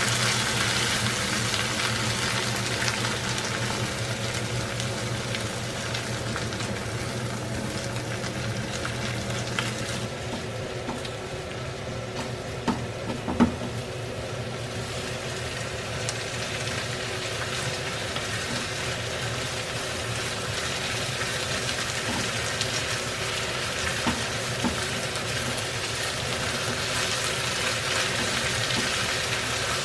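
Smoked duck, kimchi and onion sizzling as they are stir-fried in a frying pan, a spatula stirring through them. A steady low hum sits underneath, and a couple of sharp knocks come a little before halfway.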